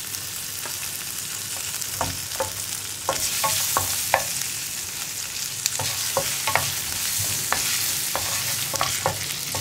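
Sliced ginger and garlic sizzling in hot butter in a nonstick frying pan, the sizzle growing louder about three seconds in. A wooden spatula scrapes and taps against the pan as they are stirred.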